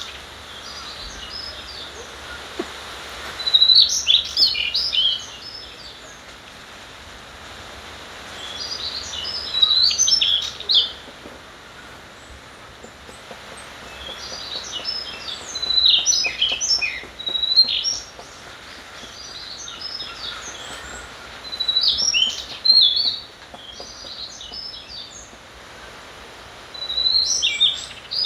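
A songbird singing short, rapid, twittering phrases, repeated about every five to six seconds, over a steady background rush of a flowing valley stream.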